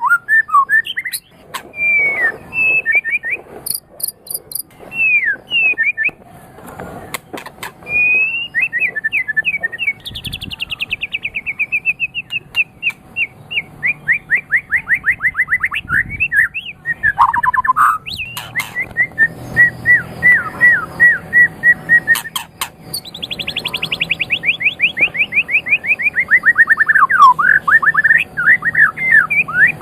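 White-rumped shama (murai batu) singing a long, varied song: fast rattling series of notes, whistled phrases that sweep up and down, and sharp clicks, with a long falling trill near the end.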